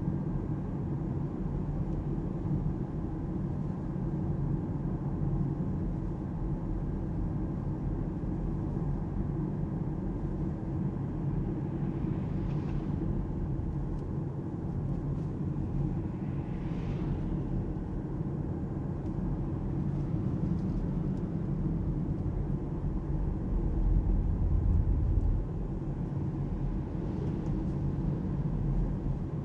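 Alpine A390 GT electric car driving through town: a steady low tyre and road rumble with no engine note. There are two faint hissing swells partway through and a louder rumble about 24 seconds in.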